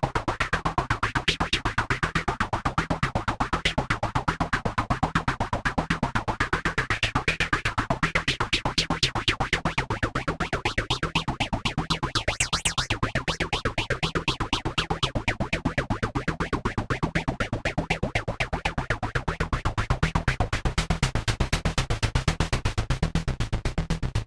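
AnalogFX SER-2020 analog synthesizer playing rapid repeating pulses over a low repeating bass figure, while filter tweaking makes the brighter tones rise and fall. About twelve seconds in there is a brief bright high-pitched sweep.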